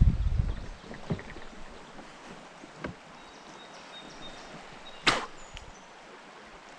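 Small-boat fishing sounds on a river: a few light knocks, then one sharp, louder noise about five seconds in, over a low background of water and wind.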